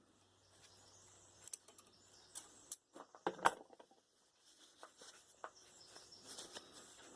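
Faint, scattered clicks and light taps of thick fencing wire being handled and bent by hand, over a low hum that stops about two and a half seconds in.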